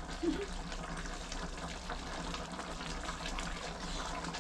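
A pot of yak-rib hotpot simmering on the stove: a steady bubbling hiss with faint small pops.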